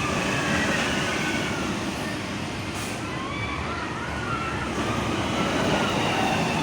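Steady rushing drone of a passenger aircraft's cabin noise, with faint wavering tones above it.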